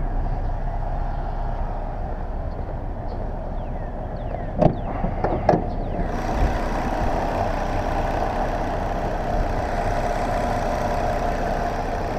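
Volvo S80 T6's twin-turbo straight-six idling steadily. Midway there are two sharp knocks about a second apart, after which the engine sound turns brighter and fuller.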